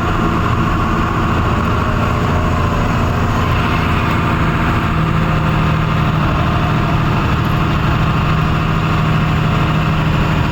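Truck engine running steadily, heard loud from inside the cab, a constant low hum with no change in speed.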